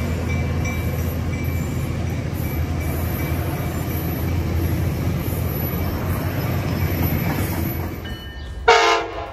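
Tri-Rail double-deck passenger cars rolling past with a steady low rumble and wheel noise, which falls away about eight seconds in. Near the end comes one short, loud blast of a train horn.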